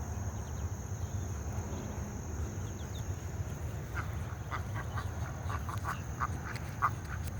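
Ducks calling, a run of short quacks starting about four seconds in, over a low steady rumble and a thin high insect drone.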